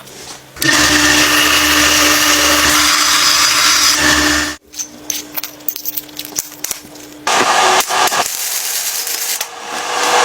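A power tool's motor running steadily for about four seconds and then cutting off suddenly, followed by quieter scraping and clicks with short louder stretches.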